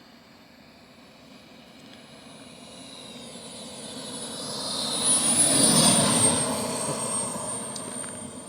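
Twin model jet turbines of a home-built radio-controlled Tornado flying past: a high turbine whine and rushing noise swell to a peak about six seconds in and then fade, the whine dropping slightly in pitch as it passes.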